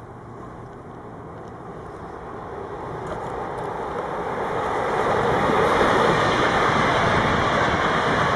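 A train approaching and running through the station: rail noise builds steadily over about five seconds, then holds loud and even.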